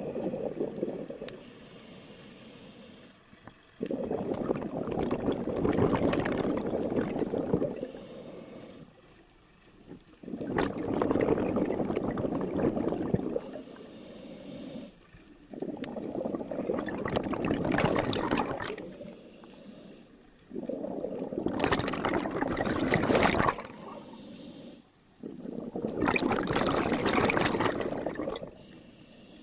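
Scuba diver breathing through a regulator underwater: five long bursts of exhaled bubbles, about one every five seconds, with a quieter hiss in the gaps between them as the diver inhales.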